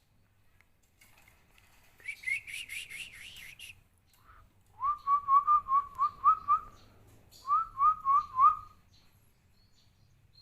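Three quick phrases of short rising whistled notes: a fast, higher run of about eight notes, then a lower run of about nine, then four more.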